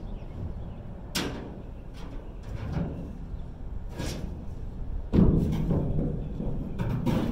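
Scrap metal and debris being pulled out and dropped in a dumpster: a run of about six thuds and clanks, the loudest about five seconds in.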